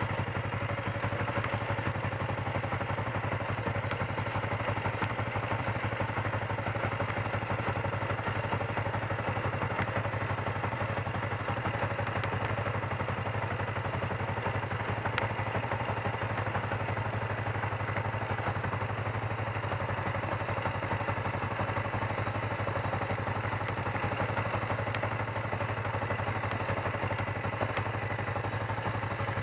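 Kawasaki 454 LTD's parallel-twin engine running steadily at low revs, an even idle with no revving.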